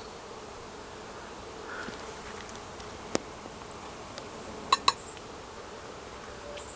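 Italian honeybees buzzing steadily around an opened hive. A sharp click comes about three seconds in, and two louder ones follow close together near five seconds in.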